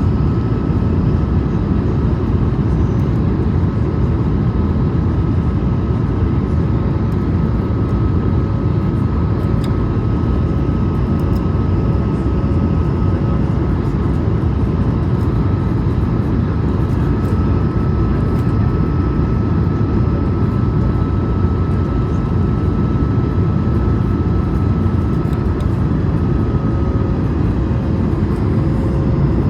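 Steady cabin noise of an Airbus A220: a loud rumble of airflow and its Pratt & Whitney PW1500G geared turbofan engines, with a thin steady high tone that fades out near the end.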